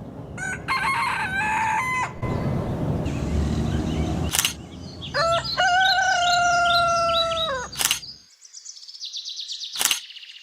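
Rooster crowing twice: a short crow about half a second in and a longer drawn-out crow a few seconds later that rises, holds and falls away. A few sharp clicks fall between, and near the end comes a rapid high chirping.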